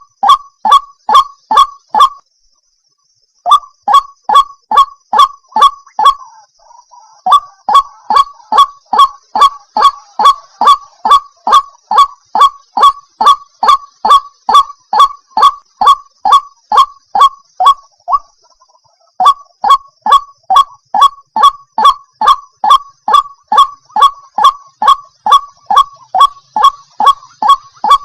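White-breasted waterhen (ruak-ruak) giving its loud repeated honking call, about two to three notes a second in long runs, with a brief pause about two seconds in and another near eighteen seconds. A faint steady high whine runs underneath.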